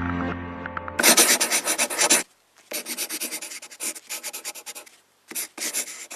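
Fast scratching or rubbing strokes in quick runs with brief pauses, starting about a second in as intro music with a low drone cuts off.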